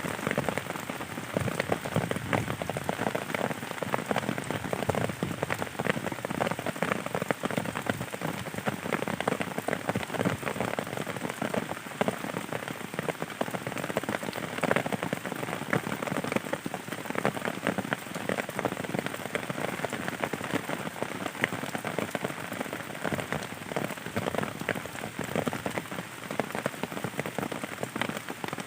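Steady rain falling, with many separate drops heard splashing close by amid the continuous hiss of the downpour.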